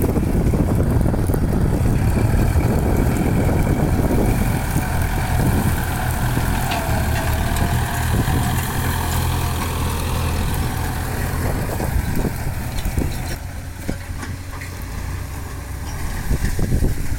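Kubota farm tractor's diesel engine running steadily while working a field. It drops back about three-quarters of the way through and picks up again near the end.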